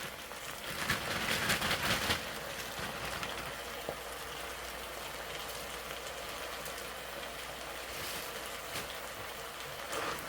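Vegetables sizzling in hot oil in a pan, a steady frying hiss that is louder for a moment about a second in.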